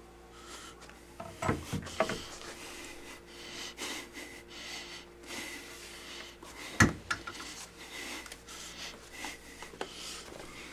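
Scattered knocks and rubbing of objects being handled, with one sharper knock about seven seconds in.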